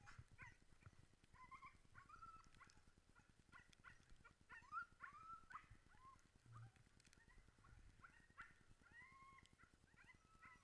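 Sled dogs whining and yelping, faint: many short high-pitched cries that rise and fall, one after another.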